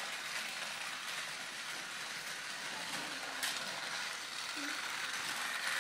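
Motorized toy train running along its track: a steady whirring hiss, with a sharp click about three and a half seconds in.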